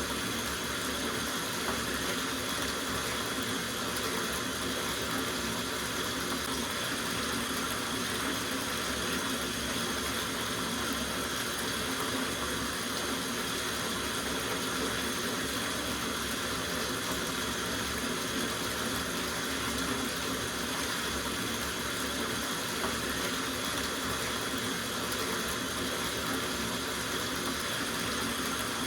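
Water running steadily from the tap into a soak bathtub, an even rush with no breaks.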